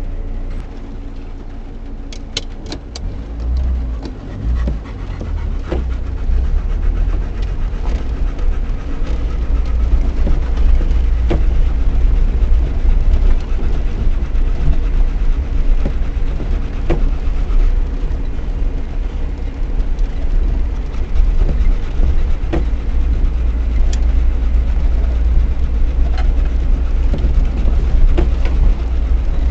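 Lada Niva 1.7i four-cylinder engine and drivetrain droning low inside the cabin on a rough dirt track, with scattered knocks and rattles from the suspension and body over bumps. It gets louder from about six seconds in.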